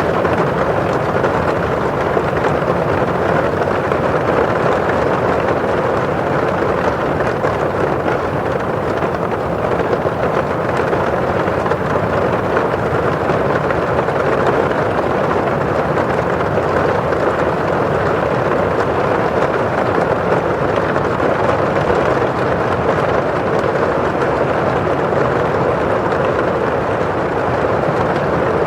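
Rain falling steadily on a window pane and outside, an even, unbroken hiss.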